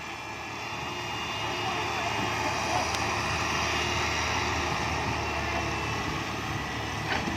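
Six-wheel dump truck engine running, growing louder over the first couple of seconds and then holding steady.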